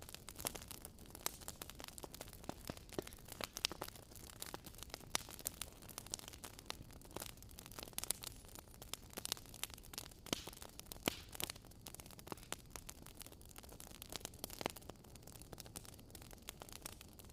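Fire burning in a fireplace, crackling: irregular sharp pops and snaps, some much louder than others, over a soft steady hiss.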